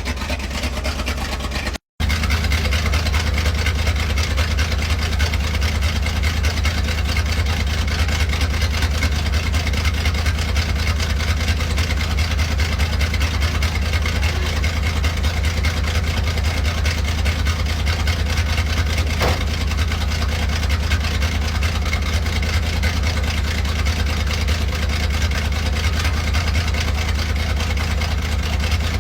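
Chevrolet C60 dump truck's carbureted engine idling steadily, freshly brought back to running after a jump start and fuel priming. The sound drops out for a moment about two seconds in.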